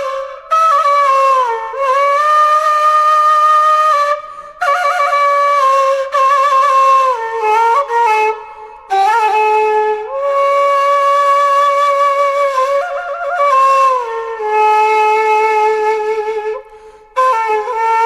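Background music: a solo flute melody in slow, long-held phrases with brief quick ornaments, separated by short pauses.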